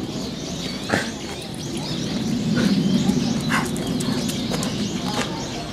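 Birds chirping in many short, scattered calls over a steady low background rumble.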